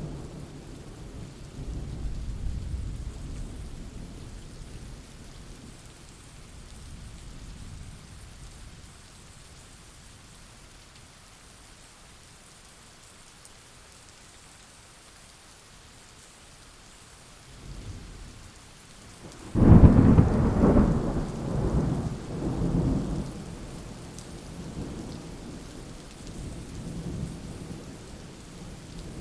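Thunderstorm with steady rain and rolling thunder. A low rumble dies away over the first few seconds, and about twenty seconds in a loud thunderclap breaks sharply and rolls on in waves for a few seconds.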